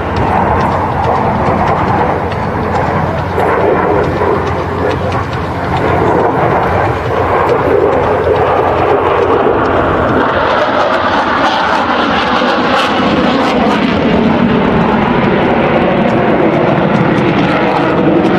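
Dassault Rafale fighter jet's twin M88 turbofan engines roaring during a low display pass, loud and continuous. The sound swells about six seconds in and turns harsher, with more hiss, from about ten seconds in.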